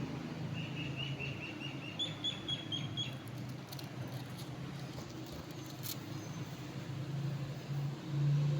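Indian ringneck parrot calling in two quick runs of short, shrill notes, about half a dozen each. The second run is pitched higher than the first.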